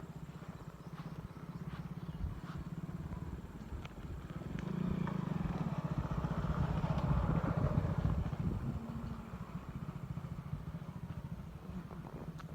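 A small engine running with a fast, even pulse. It grows louder for a few seconds in the middle, then fades back.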